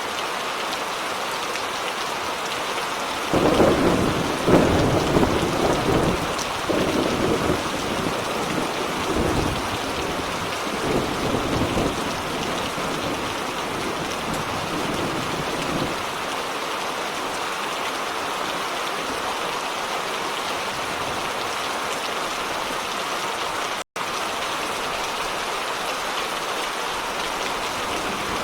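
Steady heavy rain with a roll of thunder. The thunder starts about three seconds in, is loudest just after it begins, and rumbles on for about twelve seconds before fading. The sound cuts out for an instant near the end.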